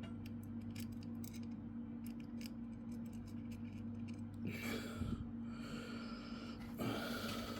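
Light clicks and taps of a small screwdriver and a tiny screw being worked against a laptop's plastic bottom cover, over a steady low electrical hum. Two louder rustling sounds come about halfway through and near the end.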